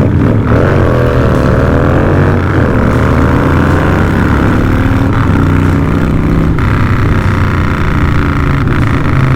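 Harley-Davidson Night Train motorcycle's V-twin engine running loud on the road. The engine note dips and climbs a couple of times in the first few seconds, then holds steady.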